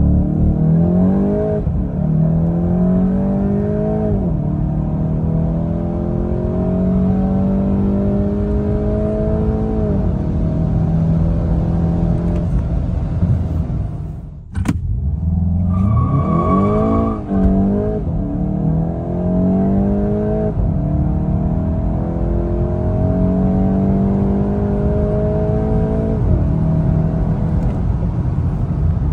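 Inside the cabin, a 2024 Volkswagen Golf GTI's 2.0-litre turbocharged four-cylinder pulls hard at full throttle from a launch-control start, its pitch climbing and then dropping sharply at each of several quick upshifts. About halfway through the sound cuts out briefly and a second full-throttle run begins, again rising through the gears, with a short high steady tone soon after it starts.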